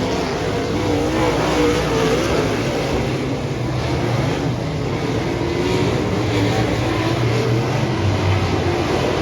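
Dirt-track modified race car engines running at racing speed, their pitch rising and falling as they are revved and eased off.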